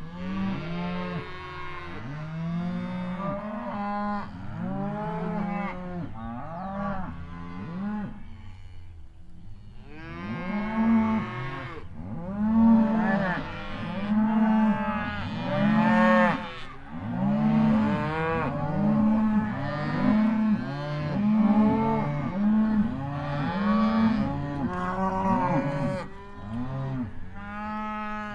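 A herd of cattle mooing, many overlapping moos one after another, with no gaps, louder and busier from about ten seconds in, fading out at the end.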